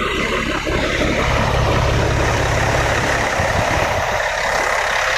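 A vehicle engine running close by with a low, pulsing rumble and a strong hiss over it; the rumble is heaviest from just under a second in to nearly four seconds, and the sound swells and then eases.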